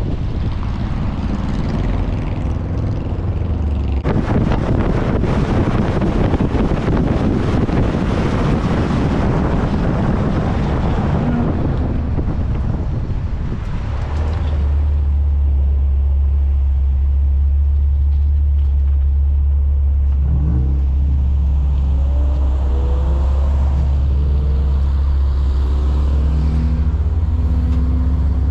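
Car noise: gusty wind-like noise for the first half, then a steady low rumble of a running vehicle, with faint rising and falling engine tones in the later part.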